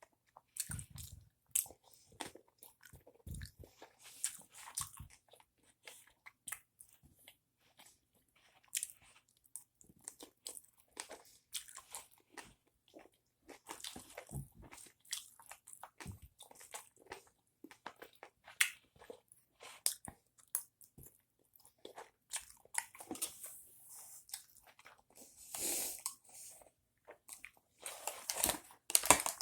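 Close-up chewing and biting of a sushi bowl: irregular wet smacks and small crunches, with a denser patch of noisy, rustle-like sound near the end.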